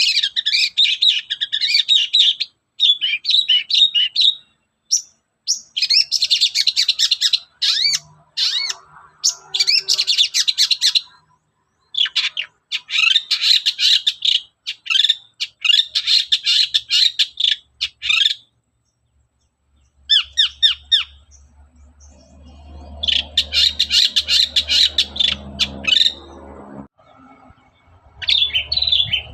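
Long-tailed shrike (cendet) in vigorous song: rapid, scratchy chattering phrases of one to two seconds each, following one another with short gaps, and a longer pause about two-thirds through. A low rumbling noise runs under the song for several seconds near the end.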